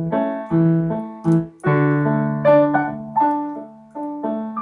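Piano or electric keyboard playing chords, each struck sharply and dying away, in a steady rhythm of about two a second, with no singing.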